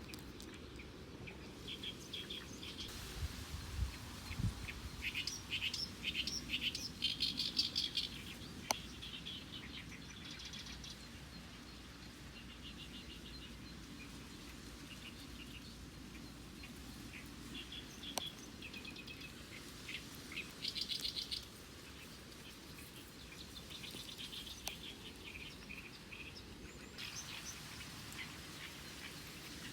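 Small birds chirping and singing in bursts of quick repeated notes over a faint outdoor hiss, with a soft low thump about four seconds in.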